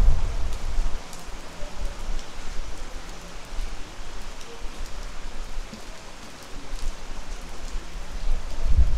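Steady rain falling, with occasional sharp drop ticks. A low rumble swells at the start and again near the end.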